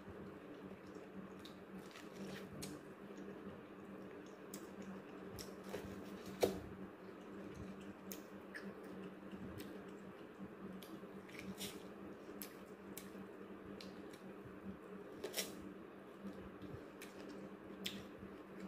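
Faint chewing of boiled sweet corn kernels: scattered small wet mouth clicks, one a little louder about six and a half seconds in, over a steady low hum.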